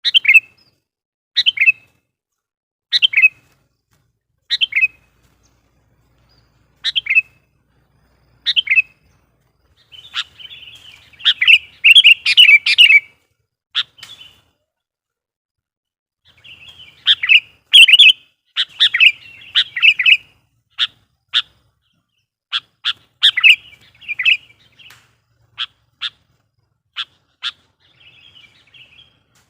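Sooty-headed bulbul (kutilang) calling: a string of single sharp notes about every second and a half, then two bursts of rapid chattering song, then more quick short notes. It is a lure (pikat) bird in full voice, the kind of call used to provoke wild bulbuls.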